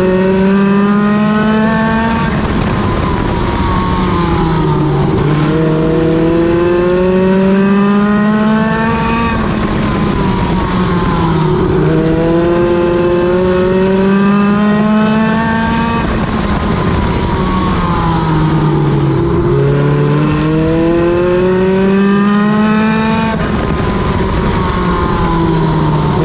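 NEMA Lite midget race car's engine running hard around a short oval. Its pitch climbs along each straight and drops off into each turn, again and again every few seconds.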